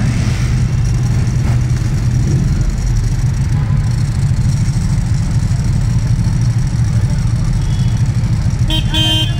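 Ducati Panigale V4 SP's V4 engine running steadily at a low, even speed, with no revving.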